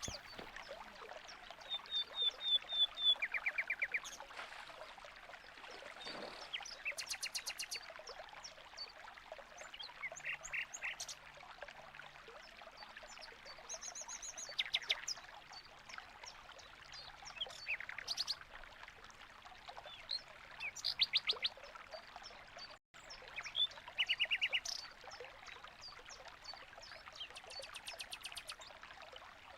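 Aviary finches calling: scattered short bursts of rapid, high chirping notes, about a dozen bursts spread through, over a steady faint hiss.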